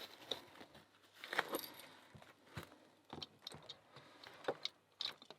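A bunch of keys jangling on a ring as they are handled, with scattered small clicks and rustles.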